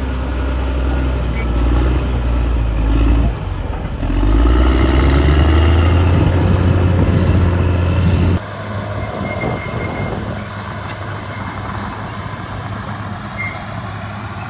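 Caterpillar D6R bulldozer's diesel engine running hard with a deep steady hum, briefly easing about three seconds in. The engine note drops suddenly about eight seconds in and runs on more quietly.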